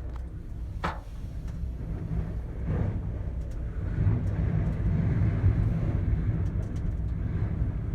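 Steady low rumble inside a moving gondola cabin in high wind, with one sharp knock about a second in.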